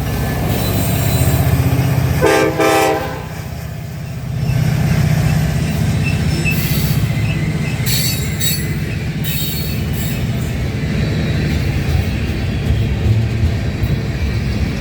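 Ferromex diesel-hauled freight train passing, with a short horn blast about two seconds in. After that comes the steady rumble of the locomotive and cars rolling, with bursts of high wheel squeal a few seconds later.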